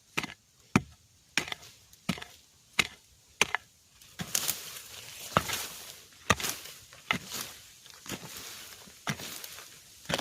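A blade or digging tool chopping into bamboo over and over, roughly one to two sharp strikes a second at an uneven pace, with a rustling hiss between the strikes in the middle stretch.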